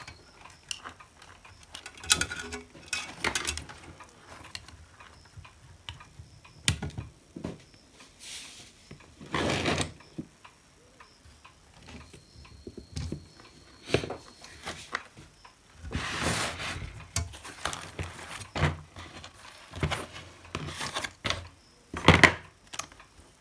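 Scattered clicks, knocks and short scraping rustles of small plastic parts and wires being handled and fitted together while a hot air gun handpiece is assembled, with a sharper knock near the end.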